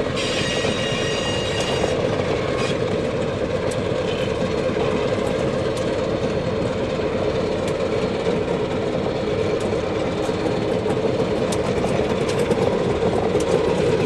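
A train running steadily along the track, with a high-pitched whistling tone over it for about the first two seconds.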